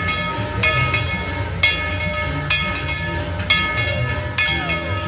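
Train bell ringing about once a second over the rumble of the moving train, with a few short falling squeals near the end.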